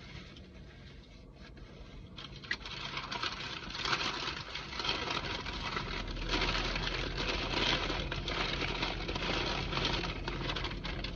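Paper food bag or wrapper rustling and crinkling close to the microphone, a dense crackle that builds about two seconds in and keeps going until near the end.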